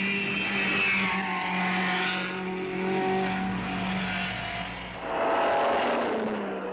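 1950s rally cars' engines running hard up a mountain climb. In the first second an engine note drops as a car goes past, and about five seconds in a car rushes by close with a louder burst of engine and road noise.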